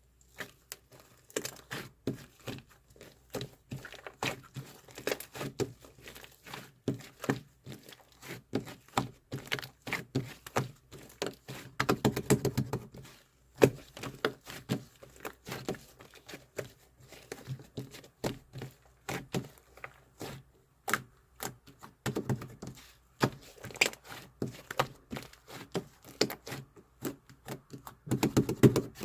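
Close handling sounds: a stream of small taps, clicks and crinkles, with a few louder soft thuds.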